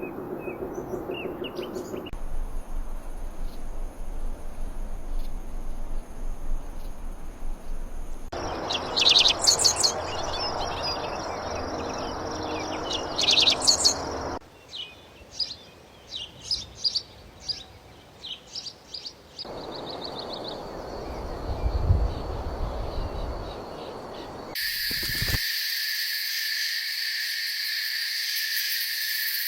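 Birds chirping and calling, in several different recordings joined with abrupt cuts every few seconds. Loud clusters of rapid high chirps come about nine and thirteen seconds in, and the last five seconds hold a steady high-pitched hiss.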